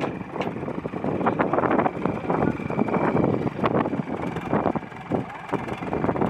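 Tractor engine running, with wind buffeting the microphone.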